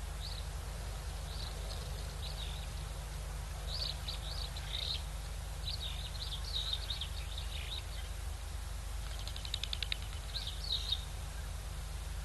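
Small birds chirping in short runs of high calls, with a fast rattling trill about three-quarters of the way through, over a steady low hum.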